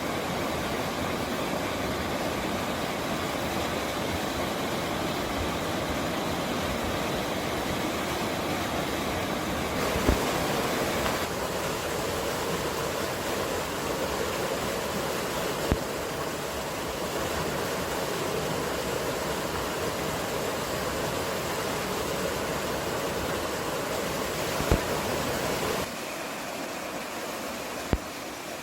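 Steady rushing outdoor noise from a mountain field recording, with a few brief sharp clicks; about 26 seconds in it drops a step quieter.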